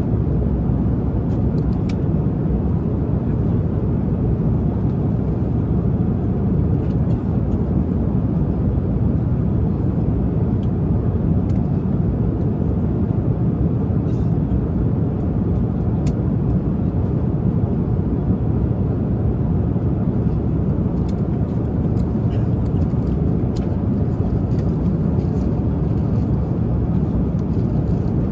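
Steady airliner cabin drone in flight: a low, even rumble, with a few faint light clicks.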